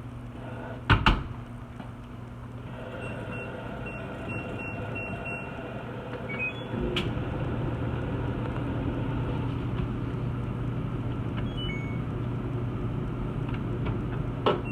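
Stacked drum washer and dryer: two sharp knocks about a second in, then a run of short high beeps from the control panel. About seven seconds in, the machine's motor hum grows louder and fuller as a drum starts turning.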